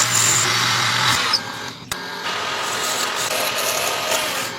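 Electric power tool running and working wood, a steady grinding hiss; the sound changes about two seconds in, as if to a different cut or tool.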